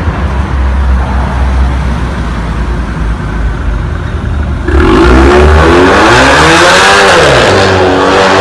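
Supercar engine rumbling at low revs, then about five seconds in it suddenly gets much louder as it is revved hard, its pitch climbing, dipping once and climbing again.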